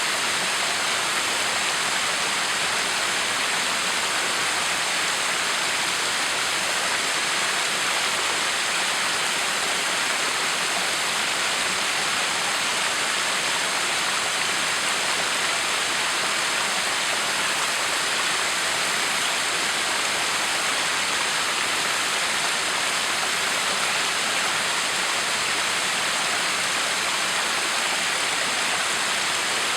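Backyard waterfall: water pouring and splashing in a steady, unchanging rush.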